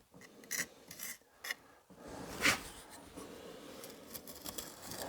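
Short scraping strokes on brick and mortar during bricklaying, several brief ones and then a louder scrape about two and a half seconds in.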